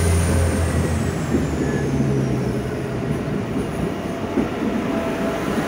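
SA136 diesel multiple unit pulling out past the platform: its engine runs steadily, with a high whine that falls in pitch over the first few seconds, and a few sharp clicks from the wheels.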